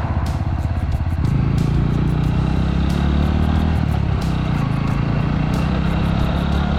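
Suzuki Grasstracker's single-cylinder engine running while riding, growing louder about a second in and then holding steady.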